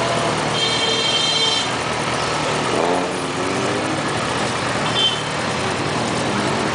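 Motor vehicle engine running amid street traffic noise, with a brief high-pitched tone about half a second in.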